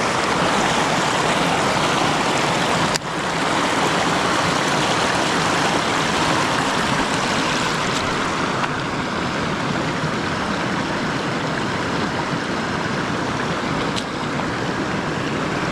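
Creek water running over a shallow stretch of current, a steady rushing sound throughout.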